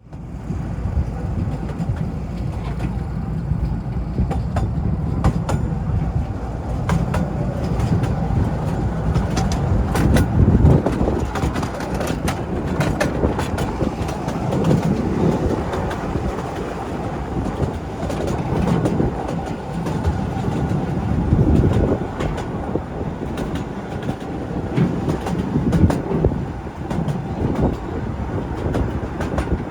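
The Artouste little mountain train running along its track: a steady low rumble that swells and eases every few seconds, with many sharp clicks and clatter from the wheels on the rails.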